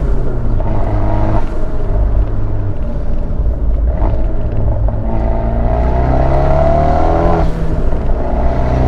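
Big-turbo Abarth 124 Spider's 1.4-litre turbocharged four-cylinder through its Ragazzon exhaust, heard from the open cockpit while driving. The engine note rises under acceleration and breaks off at a gear change about seven seconds in.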